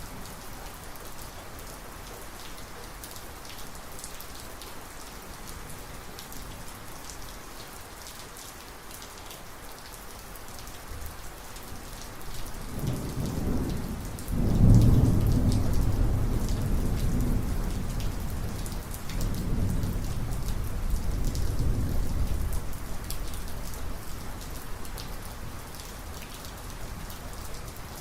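Steady rain falling, with a peal of thunder that builds about halfway through, cracks loudest after about fourteen seconds, then rumbles on in rolling waves for several seconds before fading back under the rain.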